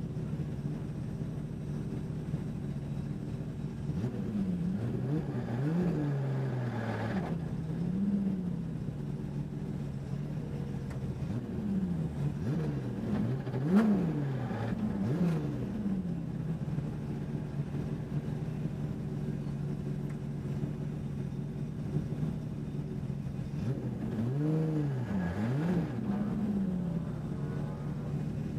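A race car's engine heard from on board, running at a mostly steady pitch. Three times the revs swing quickly up and down in pitch, as for gear changes or lifting and pressing the throttle. A single sharp click sounds about halfway through.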